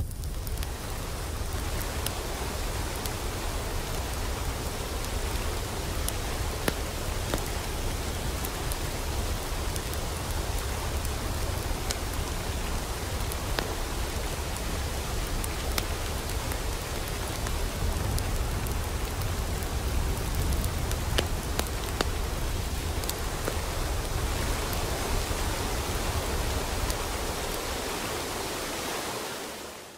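Steady hiss of water, like rain or a spray, with scattered faint ticks; it fades out near the end.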